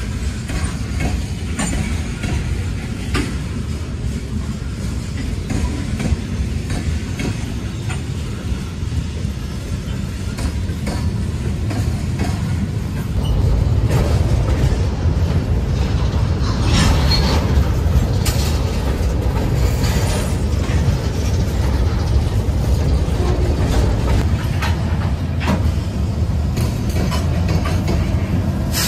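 Freight cars rolling past: a steady low rumble of steel wheels on rail, with scattered clicks and clanks. The rumble grows louder about halfway through.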